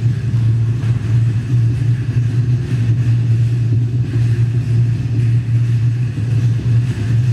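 A steady, loud low hum that does not change.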